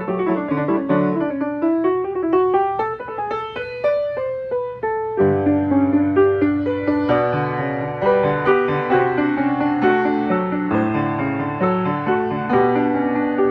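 Steinway XR Duo-Art reproducing piano playing a music roll by itself, with no one at the keys. A rising run of single notes climbs over the first five seconds, then full chords with bass come in.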